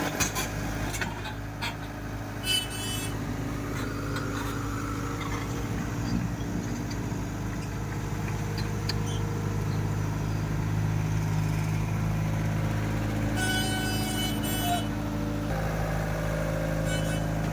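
A heavy vehicle engine running steadily, its note shifting about fifteen seconds in, with a few clicks near the start and brief high-pitched sounds twice, about two seconds in and again for over a second near thirteen seconds.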